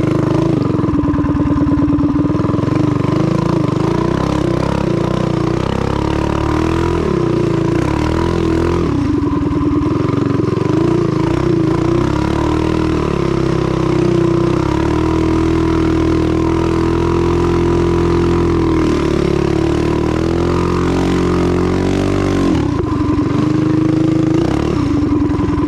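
Mini bike's small single-cylinder engine, fed by a Wildcat WC22 carburetor, running under throttle on a test after tuning, its pitch dropping and climbing back several times as the throttle is worked.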